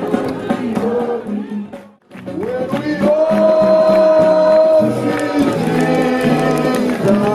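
A group of voices singing a worship song together, breaking off briefly about two seconds in and coming back with a long held note.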